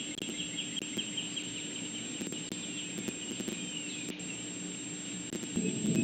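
A songbird singing fast trills of repeated falling notes, one in the first second or so and a shorter one about 3.5 s in, over a steady low electrical hum. Near the end a louder low rumbling noise comes in.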